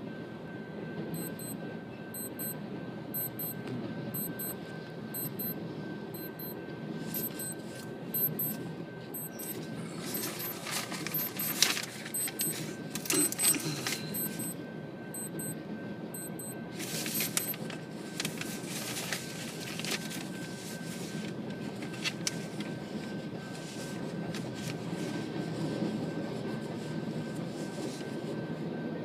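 Freight train of BNSF covered hopper cars rolling through a level crossing: a steady rumble of wheels on rail with rattles and clanks, loudest in the middle. A light regular clicking, about one and a half times a second, runs alongside and stops about two thirds of the way through.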